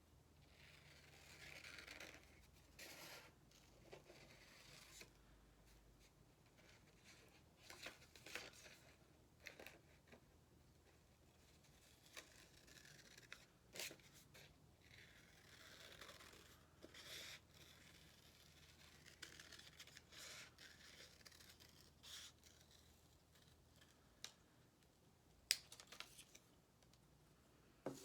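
Scissors cutting paper by hand: faint, irregular snips with light rustling of the paper sheet between cuts.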